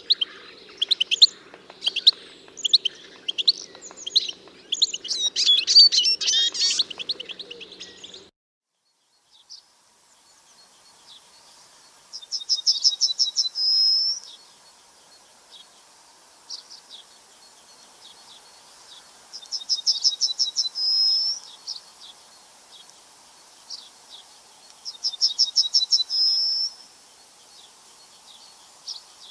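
Songbirds chirping busily for about eight seconds. After a brief silence, a single bird sings a fast trill of about two seconds that ends on a higher note, repeated three times about six seconds apart.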